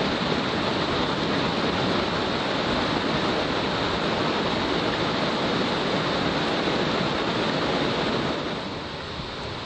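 Rushing water of a mountain river flowing over rocks, a steady, even noise that becomes somewhat quieter about eight and a half seconds in.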